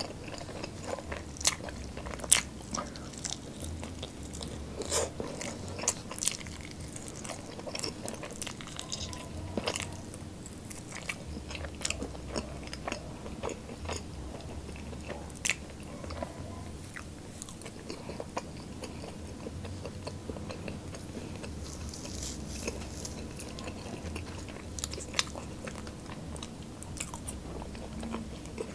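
Close-miked chewing and biting of spicy fried chicken wings: wet mouth sounds with frequent sharp clicks and crunches, thickest in the first half.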